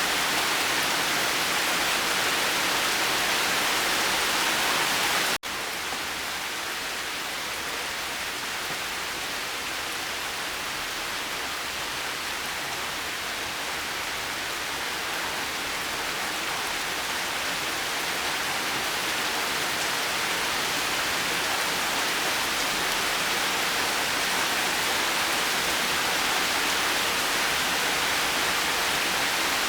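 Steady rain, an even hiss with no thunder. About five seconds in it cuts out for an instant and resumes a little softer and duller, then slowly builds back up.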